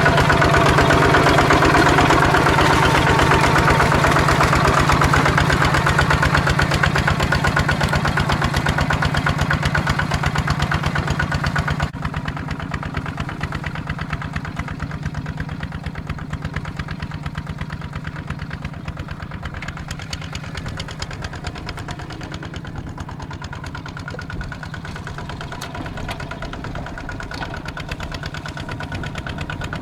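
Tractor engine running steadily with an even, fast pulse. About twelve seconds in the sound drops abruptly and runs on quieter and duller.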